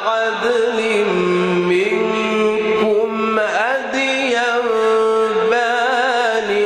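Male voice chanting Quran recitation in a melodic style, drawing out long ornamented notes with a wavering pitch and sweeping up quickly into a new phrase a little past halfway.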